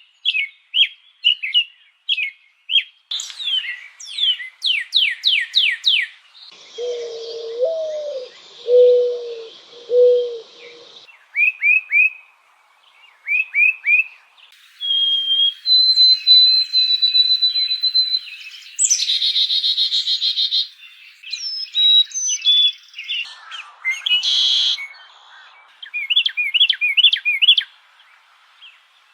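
A string of different bird songs and calls cut one after another: quick repeated down-slurred chirps, then a low call repeated about four times between about seven and ten seconds in, a long steady whistled note, and a fast buzzing trill, before more chirping near the end.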